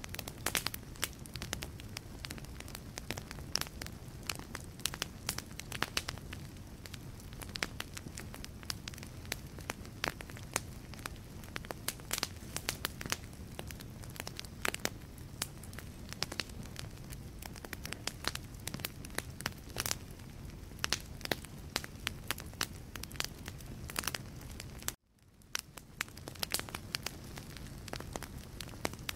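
Wood fire in a fireplace, logs crackling with frequent sharp pops over a low, steady rumble of flames. The sound cuts out for a moment near the end and fades back in.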